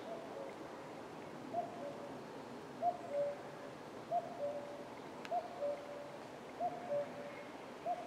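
A bird repeating a low two-note call, a higher note dropping to a lower one, about once every second and a bit, seven times over a quiet forest background.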